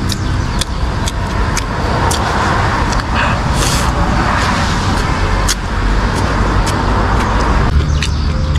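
Road traffic: a steady low rumble of passing cars, swelling in the middle, with scattered sharp clicks.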